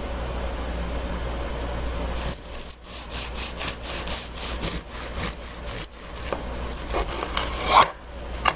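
A knife sawing through a freshly baked loaf of dark rye bread, crisp back-and-forth strokes about three a second starting about two seconds in, with a sharp louder sound near the end as the slice comes free.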